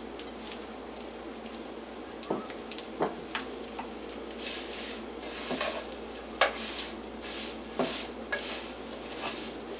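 Vermicelli frying in hot ghee in a non-stick pot, with a steady sizzle. From about halfway, a spatula stirs it, with scraping rushes and sharp ticks against the pot.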